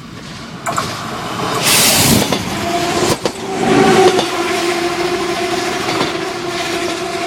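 Regional diesel passenger train arriving at a station: the running sound rises as it comes in, with a loud rush of hiss about two seconds in, then a steady two-note whine from about halfway as it slows along the platform.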